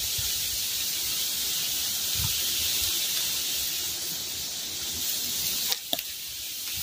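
Steady high hiss of strong wind through the forest foliage, with a couple of sharp clicks about six seconds in.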